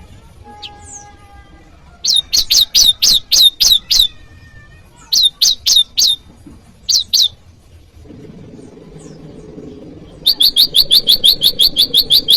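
Prenjak lumut calling: loud groups of short, sharp notes, each falling quickly in pitch, given in bursts with short pauses, then about ten seconds in a fast, even run of the same note repeated several times a second.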